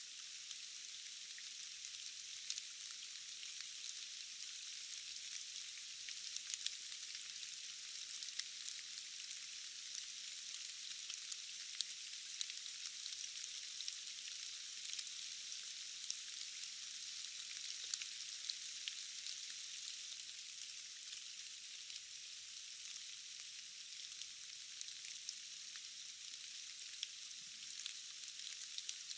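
Steady rain falling: an even, thin, high hiss with no low rumble, dotted with many small ticks of individual drops.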